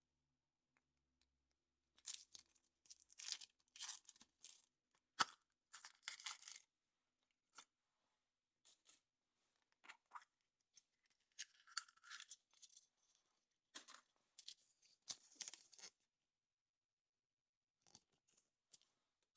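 Foil wrapper of a chocolate surprise egg being torn and crinkled off by hand in irregular bursts, with one sharp click about five seconds in.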